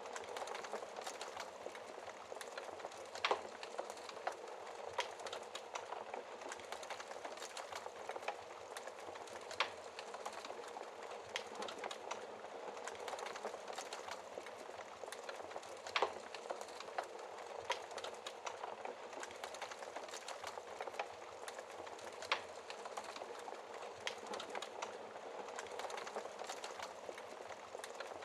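Wood fire burning in a fireplace: a steady crackle of small snaps over a soft hiss, with a few sharper, louder pops several seconds apart.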